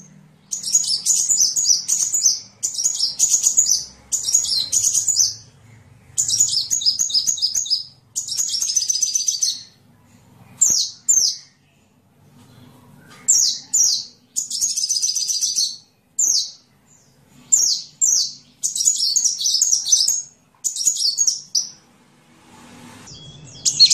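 Sunbird (Indonesian 'kolibri') singing: phrases of rapid, high twittering chirps, each lasting about a second, broken by short pauses, with a few longer silences around the middle.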